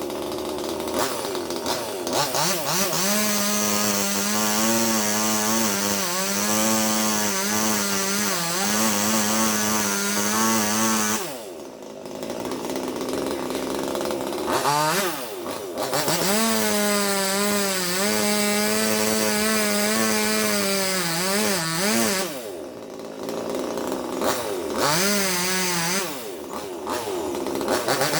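Two-stroke chainsaw running at full revs as it cuts into a coconut palm trunk, its pitch wavering under load. It drops back briefly several times between cuts, then revs up again.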